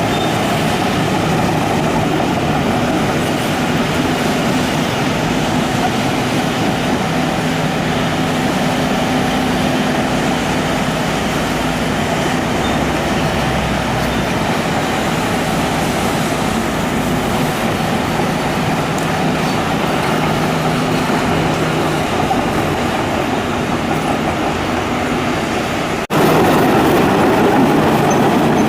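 Hitachi excavator working, its diesel engine running steadily under a continuous mechanical rattle. About 26 seconds in the sound breaks off and comes back suddenly louder.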